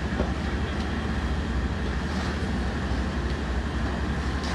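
Steady low rumble with a hiss over it and no distinct events: the continuous din of a working structure fire, with running fire apparatus and wind on the microphone.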